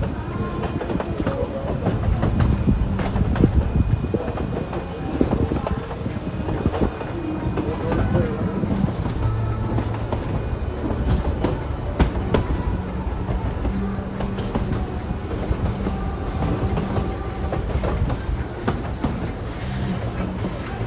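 Narrow-gauge passenger train rolling along the track, heard from an open-sided coach: a steady rumble with clickety-clack from the wheels and scattered sharp clicks.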